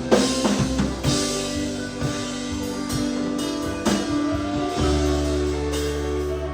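Live worship-band music: sustained guitar and keyboard chords with drum and cymbal strikes. A deep bass note holds from about five seconds in.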